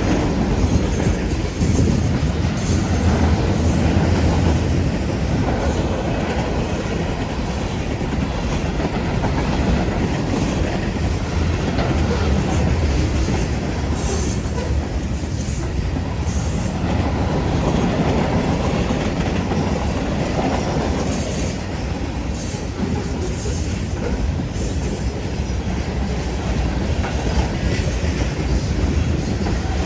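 Train rolling past, its cars rumbling and wheels clacking over the rails, with short high squeaks from the wheels now and then.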